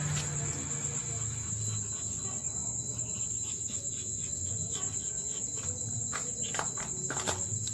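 Steady high-pitched insect trill running throughout, with a few scattered clicks and knocks in the second half.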